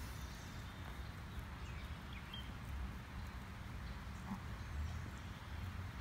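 Canada geese and their goslings giving a few faint high peeps about two seconds in and a short soft call about four seconds in, over a steady low rumble.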